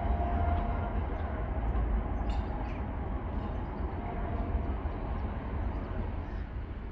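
Passenger train rolling past, a steady heavy low rumble with a faint thin squeal in the first second, the sound easing off slightly toward the end.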